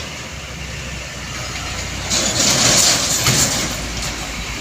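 Heavy truck engine running with a steady low drone; about two seconds in, a loud hissing rush lasts for about a second.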